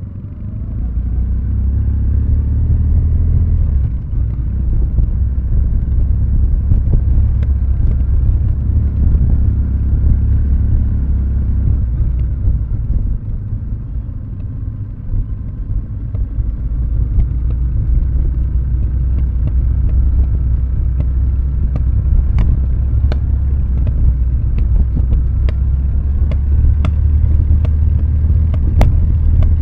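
Kawasaki W650's air-cooled parallel twin burbling at low revs through Nasert Trad aftermarket mufflers, coasting downhill with the throttle closed. Sharp ticks come in over the last several seconds.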